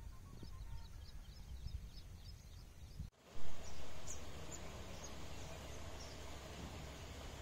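Small birds chirping in short repeated notes over a low rumble of wind on the microphone. A little after three seconds the sound drops out for an instant and a brief loud bump follows, then the chirping goes on over a louder hiss.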